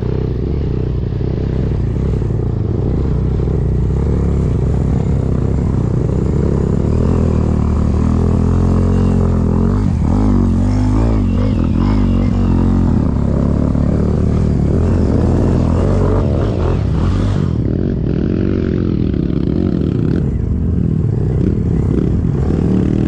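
A vehicle engine running continuously while being driven, its pitch rising and falling with the throttle, with clattering and rattling over it.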